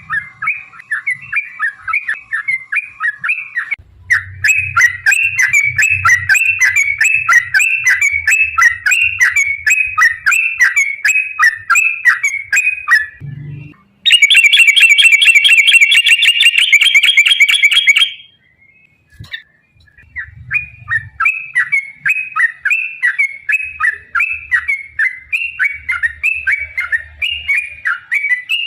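Yellow-vented bulbul (trucukan) calling: long runs of rapid, repeated chirping notes. About halfway through, a dense unbroken trill lasts about four seconds, stops for a brief silence, and then the chirping resumes.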